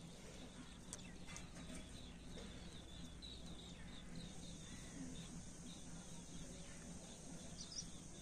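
Faint, rapid chirps of small birds repeating in quick succession, mostly in the first half, over a low steady hum.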